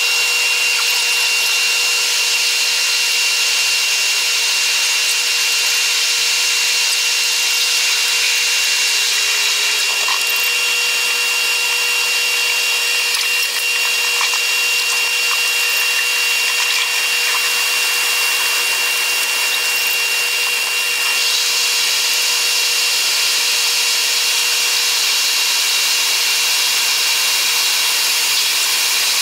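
Running noise of a Taiwan Railways EMU100 electric train, played back at eight times speed, so it comes out as a steady, high-pitched whirring hiss with a constant whine. The hiss grows brighter about two-thirds of the way through.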